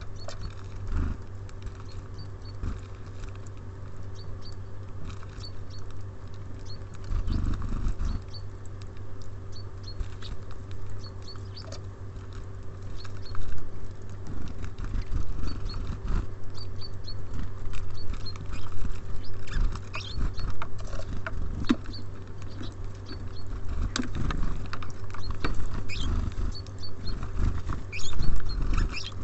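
Small birds at a feeder pecking and scratching at seed: many quick taps and clicks on the feeder, with brief high chirps now and then, over a steady low hum.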